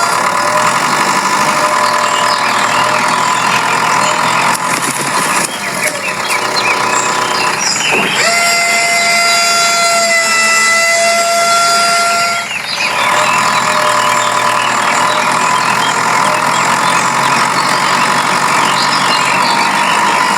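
Vehicle engine running steadily, with a long horn note held for about four seconds a little before the middle.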